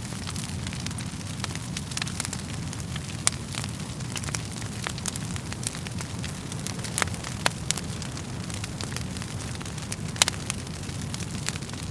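Wood fire crackling: a steady low rumble of flames with frequent sharp pops and snaps of burning logs, a few louder pops scattered through.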